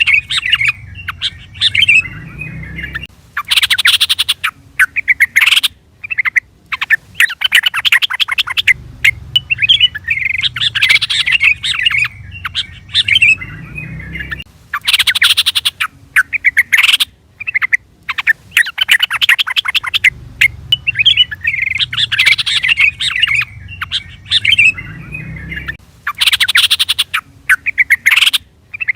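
Yellow-vented bulbul (trucukan) song: bubbly, liquid phrases alternating with fast, harsh chattering runs. The sequence repeats about every 11 seconds, as a looped calling track does.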